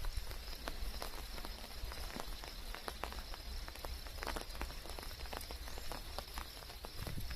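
Rain falling: scattered drops ticking irregularly over a steady hiss, with a low rumble underneath.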